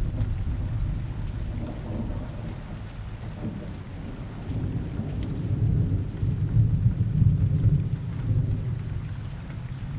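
Steady rain with low rolling thunder, the rumble easing a few seconds in and swelling again about halfway through before fading toward the end.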